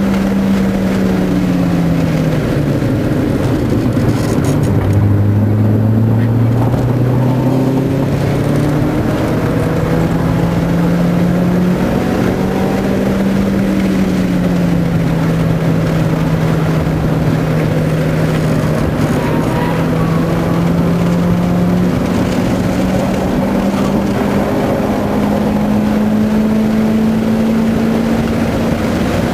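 Car engine at track speed heard from inside the cabin, with steady road and wind noise. The engine note drops a couple of seconds in as the car slows for a corner, then climbs back. It holds fairly even through the middle and rises slowly near the end as the car accelerates.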